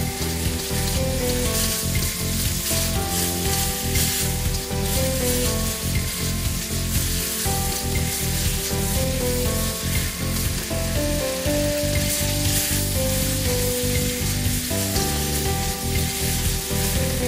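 Pork slices sizzling as they fry in a hot wok and are turned with a metal wok spatula. A melodic background music track plays underneath.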